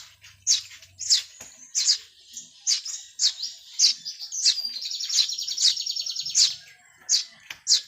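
Small birds chirping: sharp high chirps about twice a second, with a fast rattling trill lasting more than a second about halfway through.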